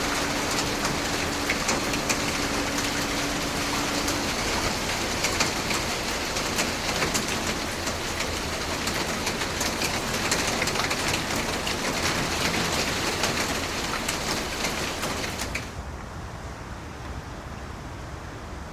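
Heavy rain pouring down, thick with the sharp patter of drops striking surfaces. A faint steady hum stops about four seconds in, and near the end the rain drops suddenly to a quieter, duller rush.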